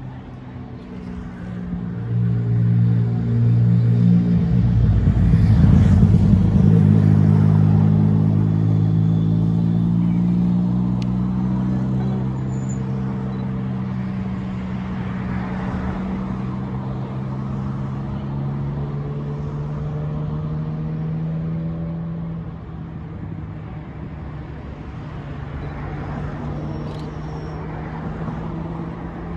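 A large diesel engine running under power: it builds up over the first few seconds, is loudest about six seconds in, then settles to a steady note whose pitch drifts slowly.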